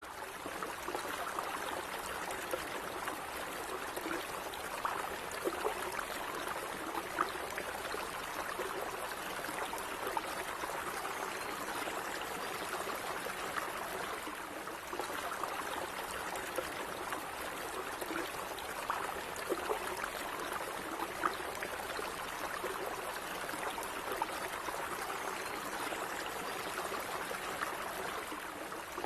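Stream of water running steadily over rocks, an even rushing with small gurgles and splashes scattered through it.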